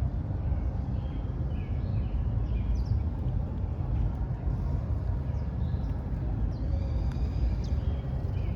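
Outdoor park ambience: a steady low rumble of city traffic, with short chirps from small birds scattered throughout.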